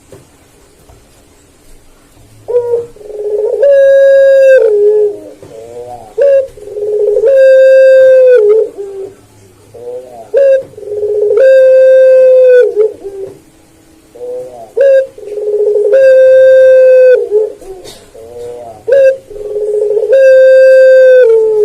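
A puter pelung dove (Barbary dove) cooing loudly in five repeated phrases, about one every four seconds. Each phrase runs through a few short notes into a long, drawn-out coo held for about a second before it drops away.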